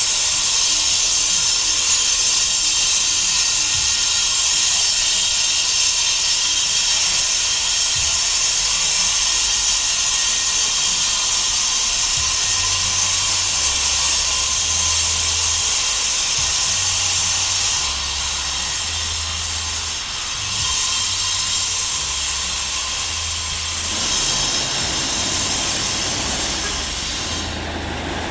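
A steady, loud, high-pitched hiss, easing a little about two-thirds of the way through and fading near the end.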